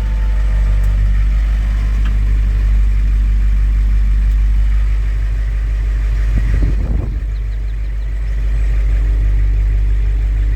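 Truck engine idling steadily after a cold start from months of storage, with a brief unevenness about seven seconds in.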